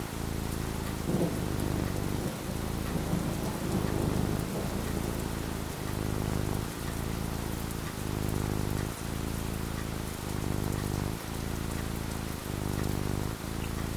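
Steady rain falling, with a low roll of thunder about a second in that fades over the next few seconds.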